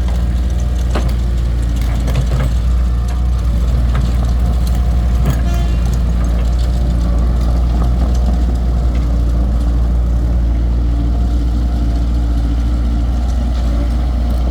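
Excavator engine running steadily at low revs, with a few clunks and knocks over it.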